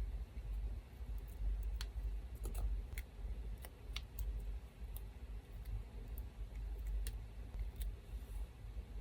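Scattered light clicks and ticks from hands working small papers and stationery tools, over the steady low hum of an electric fan.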